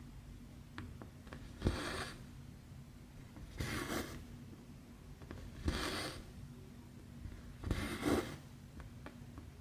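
Embroidery thread pulled through 11-count cross-stitch fabric, four rasping swishes about two seconds apart, each opening with a small tick as the needle goes through.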